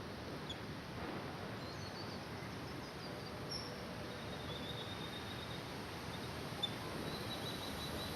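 Faint, scattered bird chirps and a thin high call over steady outdoor background noise.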